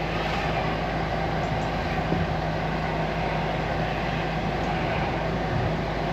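High-pressure drain jetter running with the water on and the pressure turned up. Its engine gives a steady hum under an even hiss while the hose jets through a silted pipe.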